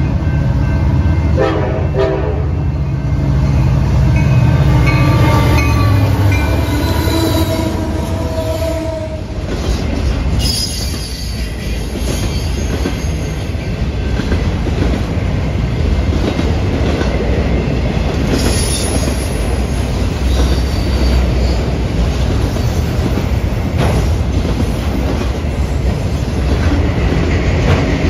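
A train passing close by: a locomotive horn sounds over a low diesel rumble for about the first nine seconds, then the cars roll past with a steady rumble, clickety-clack and a few brief high wheel squeals.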